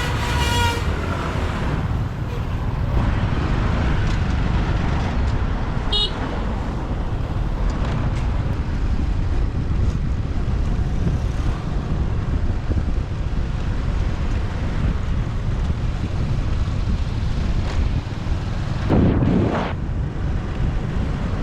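Busy city street traffic heard from a moving motorbike: a steady low rumble of engines and road, with a horn honk right at the start and a short high toot about six seconds in. A louder vehicle swells past near the end.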